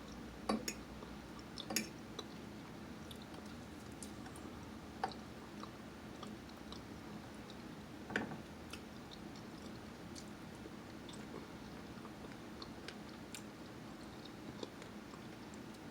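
A person chewing and eating food close to the microphone: soft wet mouth clicks, with a few louder smacks about half a second, two, five and eight seconds in.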